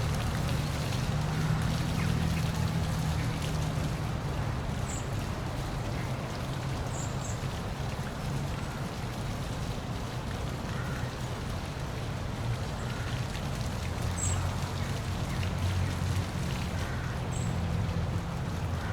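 Steady rushing of water from a park waterfall, with a low rumble underneath. A few short, high bird chirps come through about five, seven, fourteen and seventeen seconds in.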